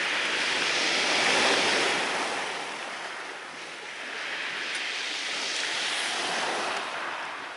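Sea surf: waves washing onto the shore in two slow swells, the first the louder, rising to a peak about a second and a half in, then ebbing before the next comes in.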